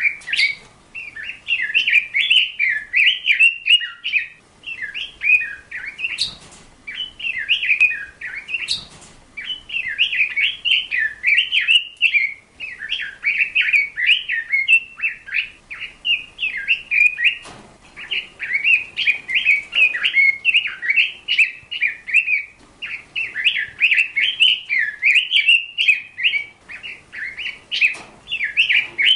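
A bird singing a fast, continuous twittering warble in long runs, with brief pauses every few seconds.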